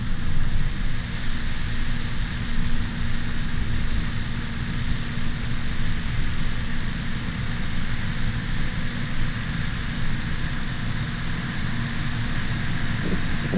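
Bulldozer's diesel engine running steadily under load, a constant drone with a held low hum.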